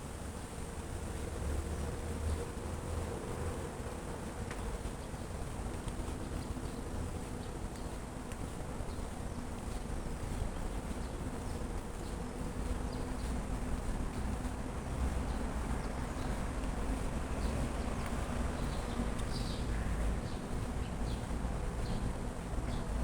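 A steady low buzz throughout, with light scattered ticks and a low rumble underneath.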